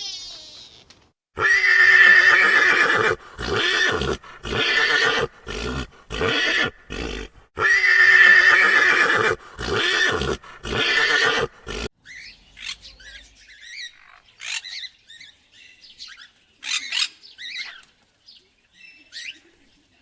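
A large animal calling loudly and repeatedly: twice a long call followed by several shorter ones, stopping about two-thirds of the way through. After that, only faint high chirps, like birds.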